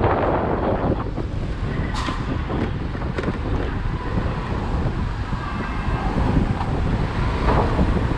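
Wind buffeting the microphone of a moving motorcycle, a steady low rumble with road and traffic noise under it. A few sharp ticks come about two to three seconds in.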